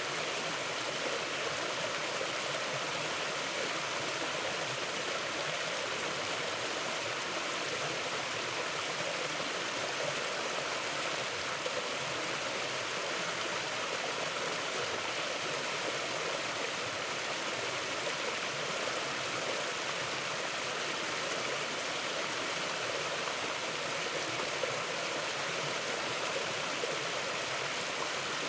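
Mountain river flowing over rocks: a steady, even rush of water with no breaks or changes.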